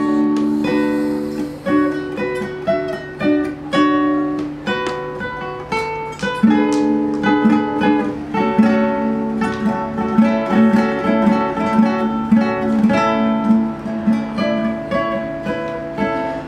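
Solo acoustic guitar playing a song's introduction, mixing plucked notes and strummed chords in a steady rhythm.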